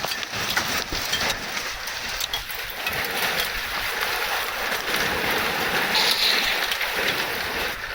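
Heavy cloudburst rain pelting down steadily, a dense patter of sharp ticks over a continuous hiss.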